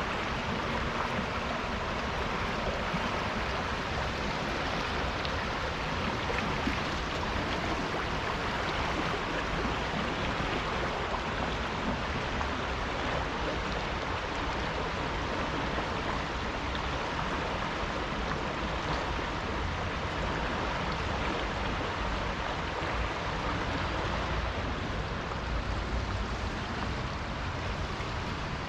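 River water rushing steadily past, an even hiss with no breaks.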